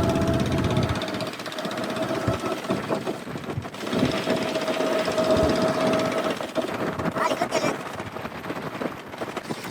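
Boat engine running, with a steady whine over a rough, knocking noise.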